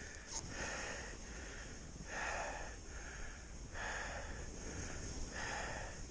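A person breathing hard and fast in an even rhythm, each breath a rushing push of air less than a second long.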